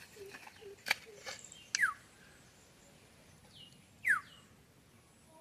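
Birds calling, with short notes that slide quickly downward, two loud ones about two and four seconds in. A single sharp click about a second in.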